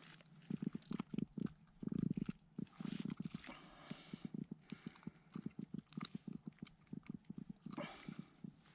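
Rapid, irregular hollow knocks and thumps on a plastic kayak hull, several a second and in quick runs, with short stretches of rustle or splash between them.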